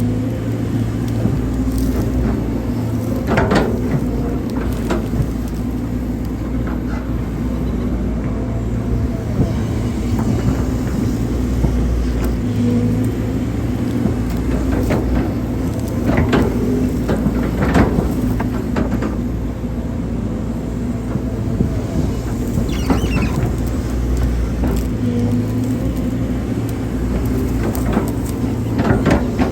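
Hydraulic excavator's diesel engine running steadily while digging, with occasional knocks from the bucket and boom.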